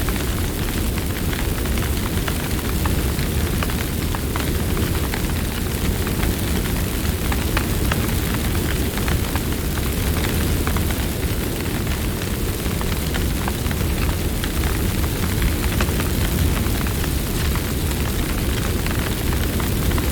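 Campfire burning: a steady low rushing noise with frequent small, sharp crackles and pops.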